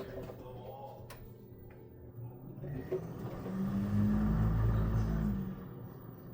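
Washing machine running in its cycle: a low mechanical hum with a steady tone swells up about three and a half seconds in, lasts about two seconds, then stops.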